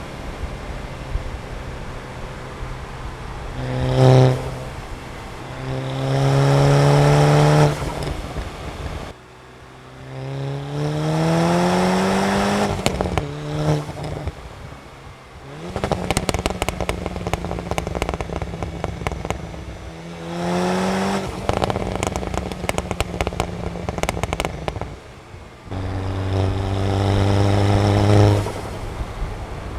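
Stage 2 tuned Volkswagen Golf MK6 GTI's turbocharged 2.0-litre four-cylinder pulling hard several times, its pitch rising through each run, with pauses between. In the middle stretch a long run of sharp crackles and pops sits over the engine.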